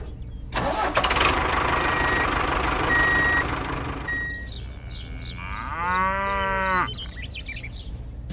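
Motor noise with three short high beeps, then, about five and a half seconds in, a low drawn-out call that falls slightly in pitch and lasts about a second and a half.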